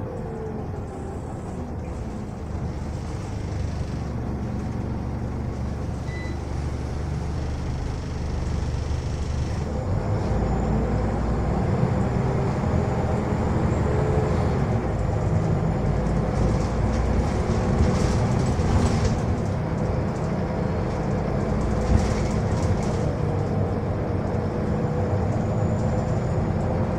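Scania L94UB bus running along the road, its engine and road noise growing louder about nine seconds in and staying up, with a sharp knock a little before the end.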